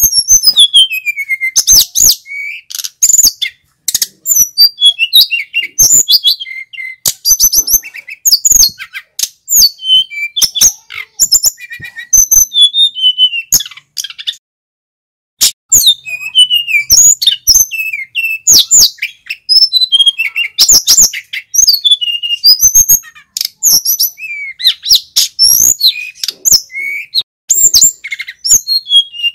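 Male sikatan gunung flycatcher in full song: a fast run of clear, varied whistled phrases, many sliding downward, with a short pause about halfway through.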